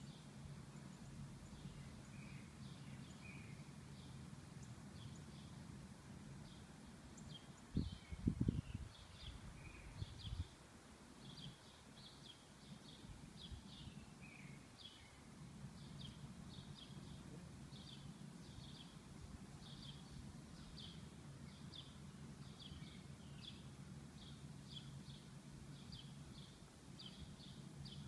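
A small bird chirping over and over, short high chirps about once or twice a second, over a steady low outdoor hum. A few loud, low thumps come about a third of the way through.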